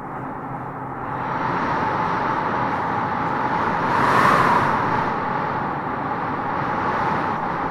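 Wind howling and gusting through tropical trees: a steady rushing with a howling band that swells about four seconds in.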